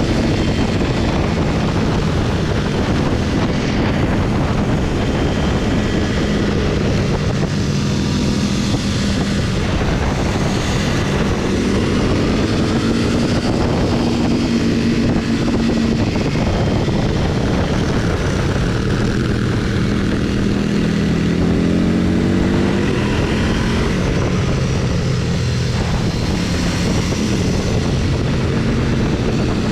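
Motorcycle engine running under way, its note rising and falling with the throttle and climbing in pitch a couple of times as it accelerates, over steady wind and road noise.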